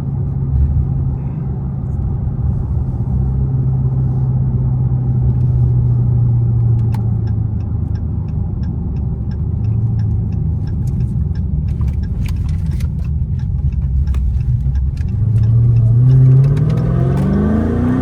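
Supercharged 6.2-litre V8 of a 2023 Dodge Charger Hellcat with its mid mufflers deleted, running loud at a steady cruise, then revving up hard under acceleration near the end.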